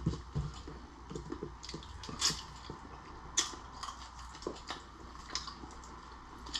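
Close-up eating of cooked lobster and shrimp: irregular small clicks, crackles and chewing noises from the food and shells, with a few sharper snaps about two and three and a half seconds in.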